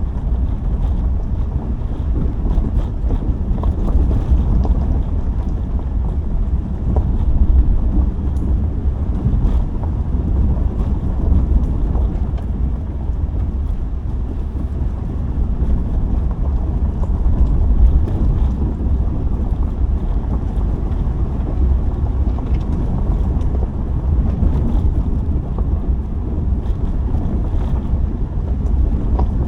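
Car being driven on a gravel road, heard from inside: a steady low rumble of tyres and engine, with faint scattered ticks of stones under the tyres.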